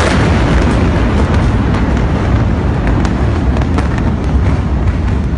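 Long, deep rolling rumble just after a massive explosion, with scattered faint crackles and pops from the blast and the fires.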